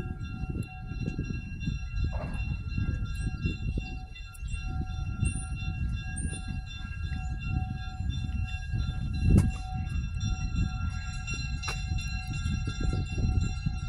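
Diesel switcher locomotive running: a low, uneven rumble under a steady high whine of several tones, with wind buffeting the microphone and a few short bird chirps in the first half.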